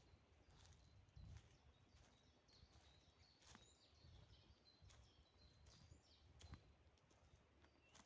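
Faint forest ambience: small birds giving short, high chirps here and there over a low rumble, with scattered sharp clicks.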